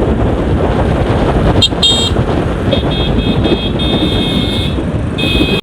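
A vehicle horn honks in short runs: briefly about one and a half seconds in, then longer through the middle, and again at the end. Underneath is a steady rumble and wind buffeting from riding a motorcycle.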